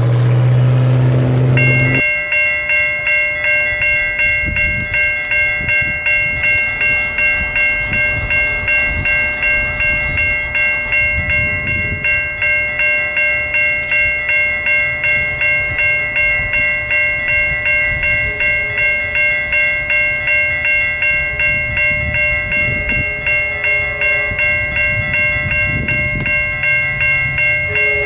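A train horn sounds and cuts off about two seconds in. A grade-crossing bell then rings steadily at about two strokes a second over the low rumble of a train rolling past.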